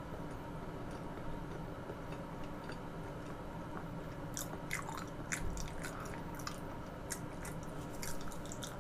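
Close-miked eating: chewing with short, wet mouth clicks and smacks, mostly from about halfway through, over a steady low background hum.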